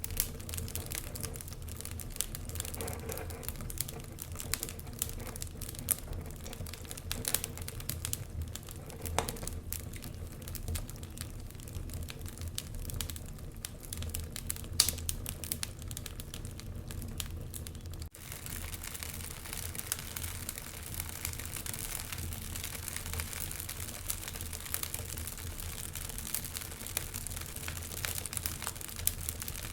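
Wood fire burning in a fireplace: irregular crackles and pops over a steady hiss and low rumble of flames. The sound briefly drops out about eighteen seconds in, then carries on with a steadier hiss and finer crackling.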